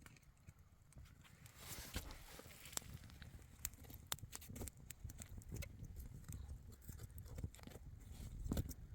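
Irregular light knocks and clicks, like handling or movement, over faint background noise, with a louder cluster near the end.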